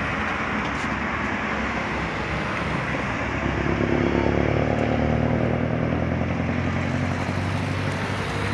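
Diesel engine of a Scania coach running under a steady road-noise hiss. Its note swells and the revs rise about three to five seconds in, then settle.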